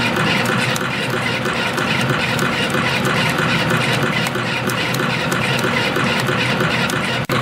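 CNC spring coiling machine (YHM CF-308) running, coiling 0.2 mm wire into compression springs: a steady mechanical whir with a fast, even run of clicks from each coiling-and-cutting cycle. It breaks off briefly near the end.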